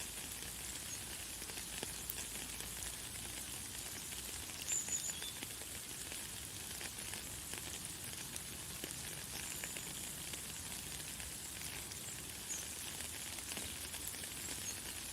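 Light, fine rain falling steadily: a soft hiss of many small drops. A few short, high bird chirps come through it, one about five seconds in and more later on.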